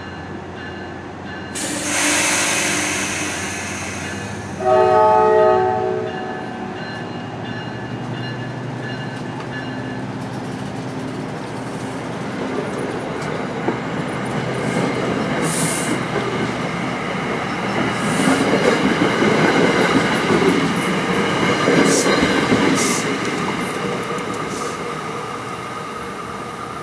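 New Jersey Transit commuter train departing: a loud hiss about two seconds in, then a short blast of the ALP-45DP locomotive's multi-chime air horn, followed by the coaches rolling past with a steady rumble and clickety-clack of wheels over rail joints that fades as the train pulls away.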